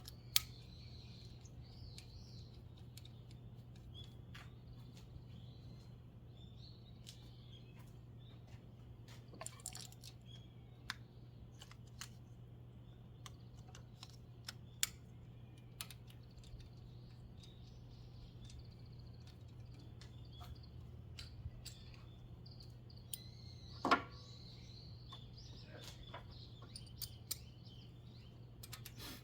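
Scattered light clicks and taps, most likely hand tools being handled during spark plug work, with one louder knock about two-thirds of the way in. Faint bird chirps and a steady low hum run underneath.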